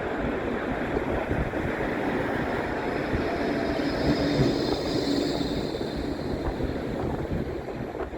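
Strong wind buffeting the microphone, with an electric tram running on the tramway. A faint whine from the tram comes and goes around the middle.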